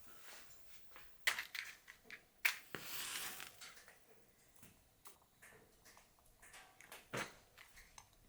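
Cookie dough being prepared by hand in a kitchen: scattered light clicks and knocks, with a longer stretch of rubbing noise about three seconds in.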